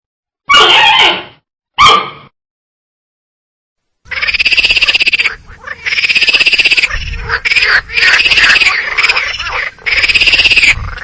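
An animal calling: two short calls in the first two seconds, then from about four seconds in a long rapid pulsing call repeated in four bouts with short breaks.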